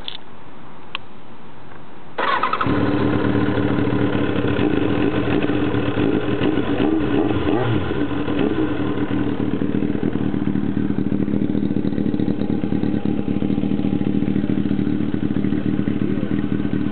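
1999 Kawasaki ZX-7R's inline-four engine being started: a click about a second in, a brief crank about two seconds in, and the engine catching almost at once, then idling steadily.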